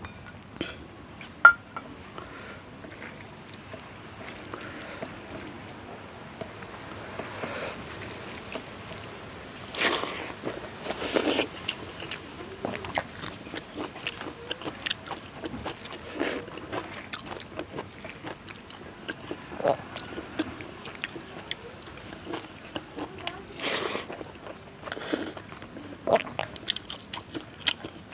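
Close-miked mukbang eating of rice with dal and fried vegetables: steady chewing and crunching with small clicks. There is one sharp click about a second and a half in, and a few louder crunchy bursts near the middle and toward the end.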